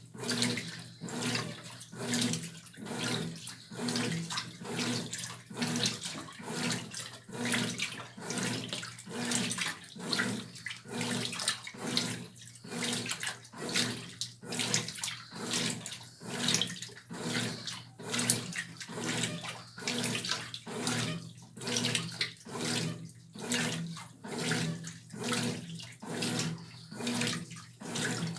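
Brastemp 12 kg washing machine agitating a load of clothes in water: the water sloshes back and forth in a regular rhythm, about once a second, over a steady low hum.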